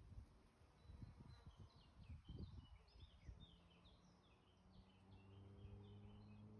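Faint songbird chirping, a quick run of short high notes, over low rumbling noise. After about five seconds a low steady drone comes in.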